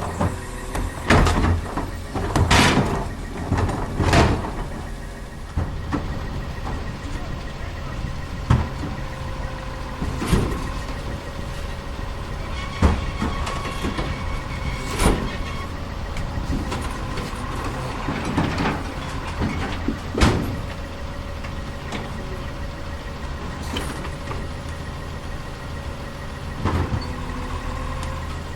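Crane Carrier LET2 garbage truck with a Heil split-hopper body running with a steady whine, while repeated loud bangs and clatter of trash collection break in every few seconds.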